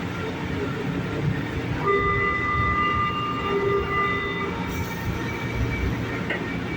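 São Paulo Metro train running with a steady rumble. About two seconds in, a steady tone of several pitches sounds for roughly three seconds, then stops.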